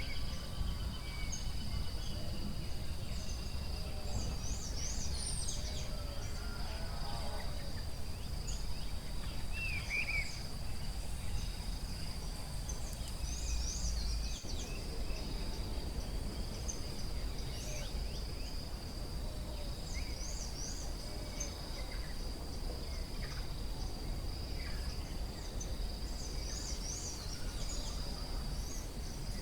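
Forest ambience: a steady high insect drone runs throughout, while birds give frequent short, high chirps and a few lower calls. Beneath them is a constant low rumble.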